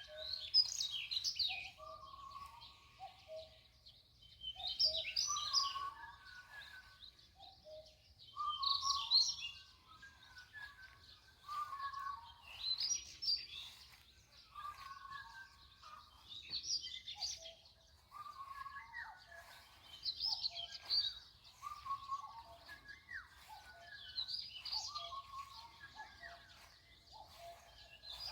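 Birds singing: one repeats a short, high, busy song phrase about every four seconds, while lower whistled notes fill the gaps between phrases.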